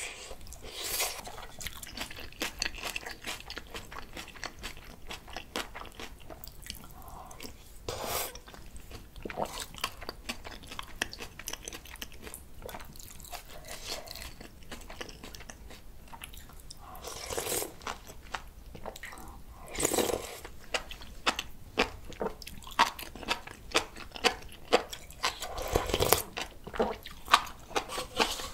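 Close-miked chewing and crunching of spicy bibimbap mixed with raw radish salad and spring cabbage: a steady run of small wet mouth clicks, with a louder crunchy bite now and then.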